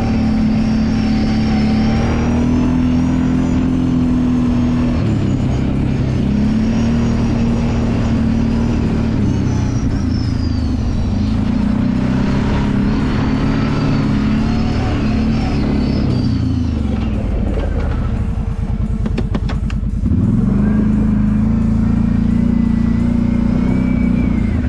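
Kawasaki Brute Force 750 ATV's V-twin engine running on the trail, holding its revs and easing off several times. Near the end it drops to a low idle with separate, distinct firing pulses for about two seconds, then picks up again.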